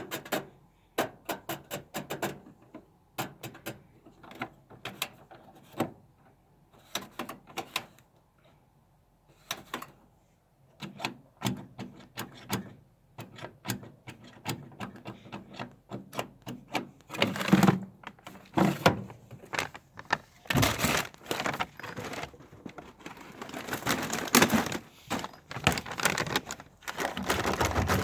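Bosch WFM 3030 washing machine: a run of irregular sharp clicks and knocks. They grow denser and louder, with heavier thumps and a thicker, fuller sound building near the end.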